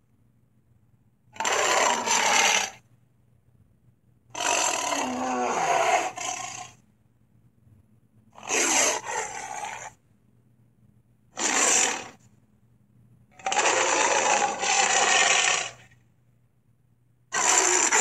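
Dinosaur roar sound effects for the allosaurus Sharptooth: six harsh, rasping roars, each one to two and a half seconds long, with short pauses between them.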